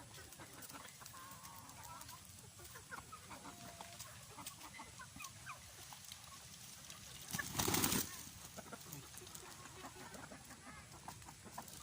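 Free-range chickens clucking as they feed, with many short soft calls and small ticks. About seven and a half seconds in comes one brief, loud rush of noise.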